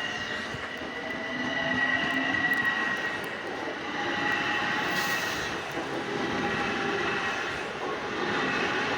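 Long Island Rail Road electric train running along the tracks: wheel and rail noise with a steady high-pitched whine and motor tones that shift slowly in pitch.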